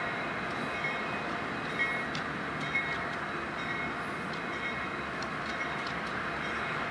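Union Pacific freight train approaching at slow speed behind GE C44-9W and EMD SD60M diesel locomotives, giving a steady engine and rolling rumble, with a couple of brief clicks about two and three seconds in.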